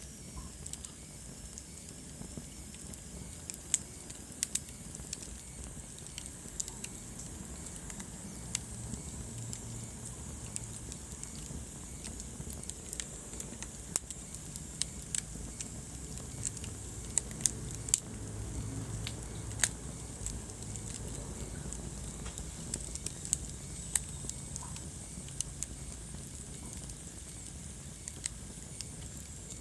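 Wood fire burning in a fireplace, crackling with frequent irregular sharp pops and snaps over a low, steady rumble of flame.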